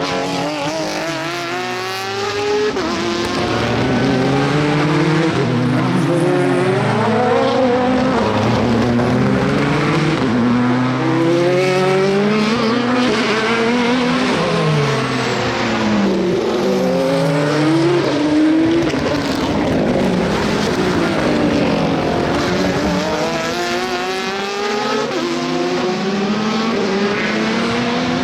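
Several Le Mans endurance race cars passing in quick succession. Their engine notes overlap and repeatedly rise and fall in pitch as they change gear through the corners.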